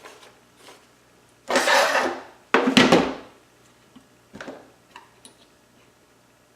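Wood and metal parts of a homemade jig being handled and fitted together: two loud noisy knocks or scrapes, each about half a second long and a second apart, then a few light clicks.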